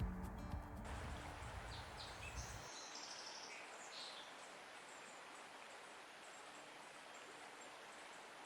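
Background music ends about a second in. A faint outdoor ambience follows: a steady hiss with a few short, high bird chirps in the first half.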